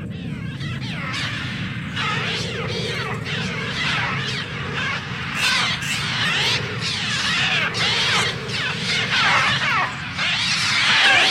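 A large flock of birds calling together: many overlapping chirps, squeaks and whistles, growing denser and louder toward the end, over a steady low rumble.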